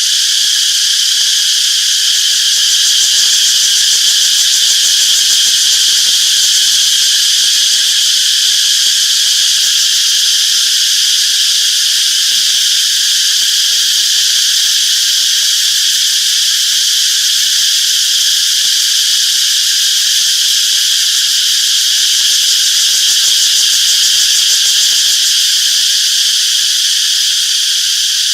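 Cicadas chirping in a dense, continuous chorus, a steady high-pitched buzz that holds at one level without breaks.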